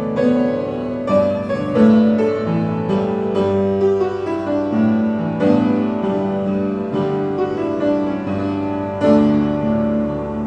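Piano playing a slow tune in chords, each note struck and left to ring.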